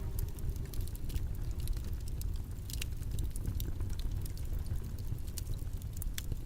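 Steady, deep background noise track, the white noise of a study session, with scattered light clicks and taps throughout.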